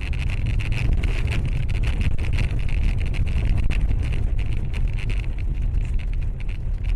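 A car driving: steady low rumble of road and wind noise on the microphone, with a hiss higher up and many small clicks or rattles.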